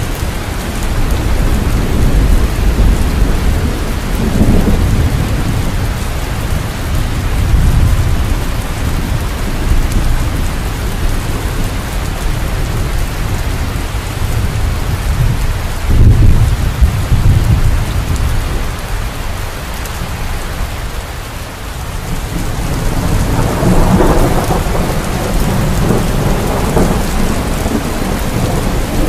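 Steady rain with rolling thunder. Deep rumbles swell and fade several times, and the loudest breaks in suddenly about halfway through.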